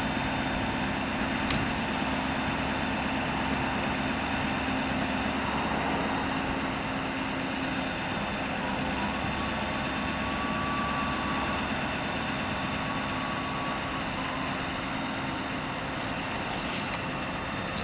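Ford Powerstroke diesel engine running at a steady speed, a continuous drone with a steady whine over it, while it powers the bucket truck's hydraulic boom. A faint higher tone joins for a few seconds in the middle.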